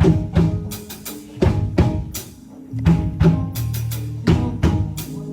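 Instrumental band music: a drum kit playing loud, sharp hits over sustained low bass notes.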